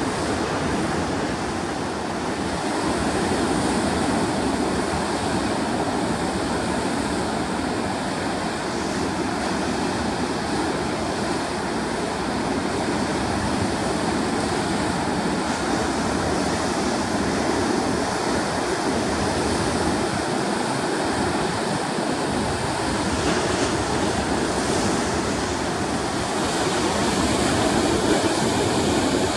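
Big ocean surf breaking against the coast: a continuous, steady wash of noise, loudening slightly near the end.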